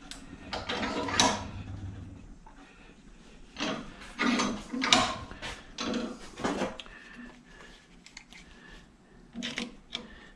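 Irregular metal clanks, knocks and scraping from hand tools and a bench vise as small scrap is worked apart to free a little copper motor. The knocks come in clusters, with the loudest in the middle.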